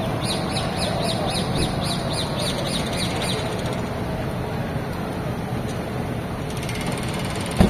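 A bird calling in a quick run of short, high-pitched notes, about three or four a second for some three seconds, over steady city street noise. A single short thump near the end.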